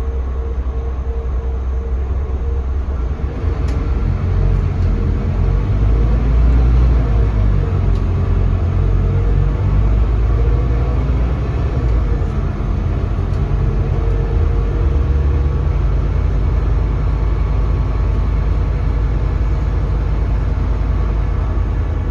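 Scania K320CB city bus heard from inside the cabin: its Scania DC9 diesel engine and ZF automatic driveline running with road rumble as the bus drives, growing louder a few seconds in.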